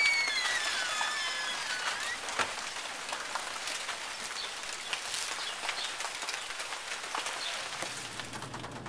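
Steady rain falling, a high even hiss with scattered sharp drop ticks.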